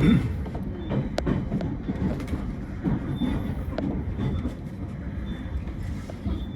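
A train running on the rails: a continuous low rumble with scattered clicks and knocks.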